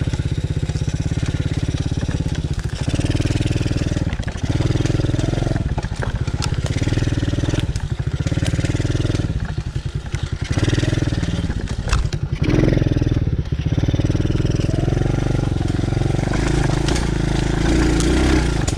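TaoTao DB14 110cc single-cylinder four-stroke dirt bike engine running under riding load, its throttle rolling on and off every second or two as the bike picks its way over rough ground. A few sharp knocks come through, the loudest about twelve seconds in.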